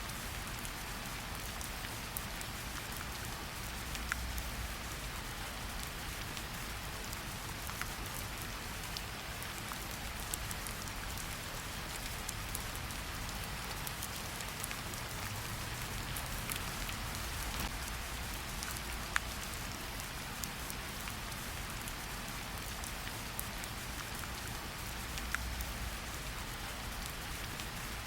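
Steady rain falling in a forest, an even hiss with scattered individual drops ticking, a few louder drop hits here and there.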